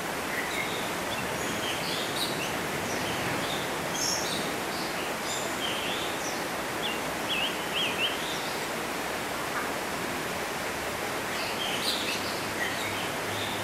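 Short, high chirps of small birds come in scattered clusters over a steady outdoor hiss, bunched early on, through the middle and again near the end.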